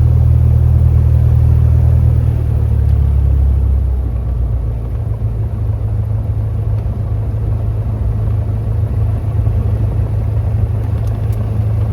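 Cessna 172 piston engine and propeller droning steadily. It eases off slightly between about two and four seconds in.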